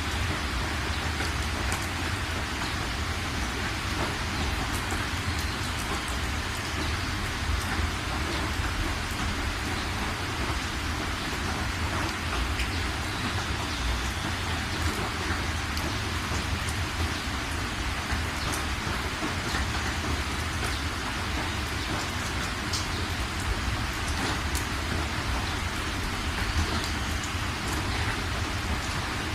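Steady rain falling, an even hiss of drops with a continuous low rumble underneath.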